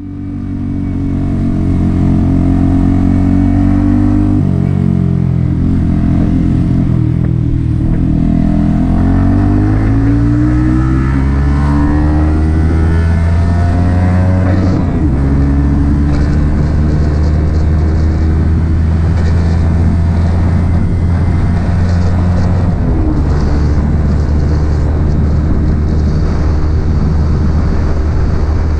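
Yamaha XSR 155's single-cylinder engine through an aftermarket M4 exhaust, accelerating through the gears. The revs climb and drop several times in the first half, then settle into a steady cruise.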